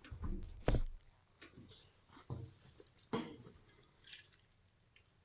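Scattered clicks and knocks of hand tools being handled, sharpest in the first second and again about three seconds in.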